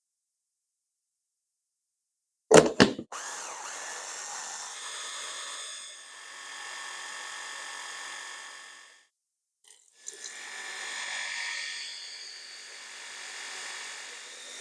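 Electric kitchen blender motor running in two stretches of about five and six seconds, with a short stop between them, after a couple of sharp clicks as it is set up.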